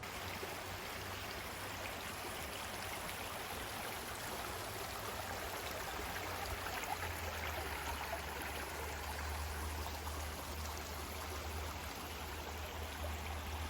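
Small trailside creek running, a steady rush of water, with a low rumble joining about halfway through.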